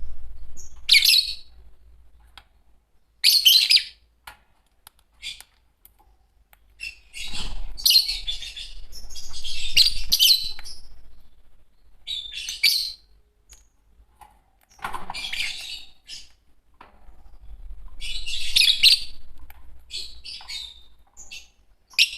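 Fischer's lovebirds chirping and screeching: shrill calls in bursts of about a second, with short pauses between them.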